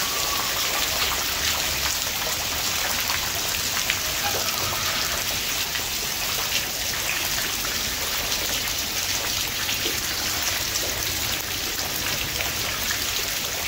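Heavy downpour: a steady hiss of rain falling on a muddy yard and splashing into standing puddles, with many small drop ticks.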